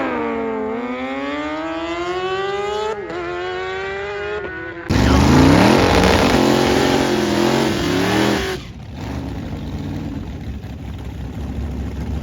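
Drag-racing car engine accelerating hard, its pitch climbing and dropping back at gear changes. About five seconds in, a louder engine note comes in suddenly and cuts off abruptly a few seconds later.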